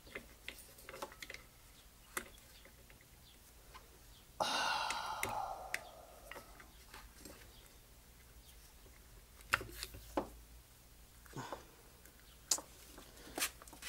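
Small carburetor parts being handled: scattered light clicks and taps, a scrape lasting about a second and a half, starting about four seconds in, and a few sharper clicks near the end.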